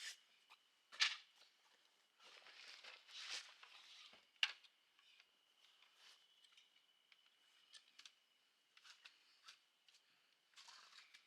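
Faint rustling and scattered light clicks of something being handled, with a faint steady high tone behind them.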